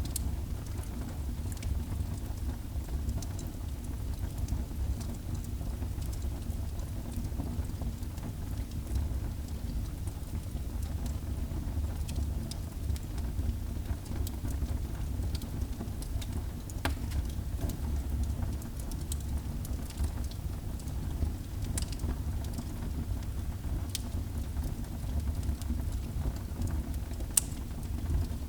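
Wood fire burning in a fireplace: a steady low rumble of flames with scattered crackles and pops from the burning wood, one sharper pop near the end.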